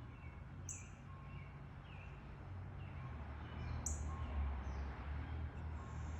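Wild birds calling: a sharp, high chirp twice, about three seconds apart, with softer short downward-slurred notes in between, over a steady low rumble.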